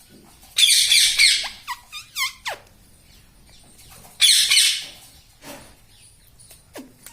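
Pet parrot screeching twice, harsh loud calls about half a second in and again about four seconds in, with a few short whistled notes after the first.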